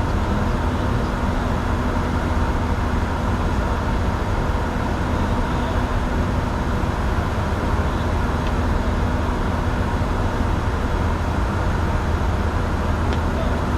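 Steady cockpit noise of a Bombardier Challenger 605 business jet: a constant low engine and air hum with a few steady tones over it.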